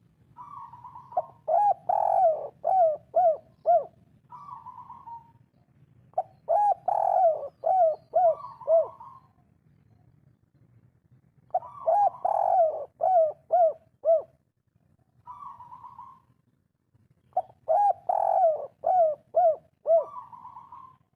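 Spotted dove (tekukur, the 'kuk 3' type) cooing. About four song phrases, each a soft opening note and then a quick run of five or six short, falling coos, with pauses between them.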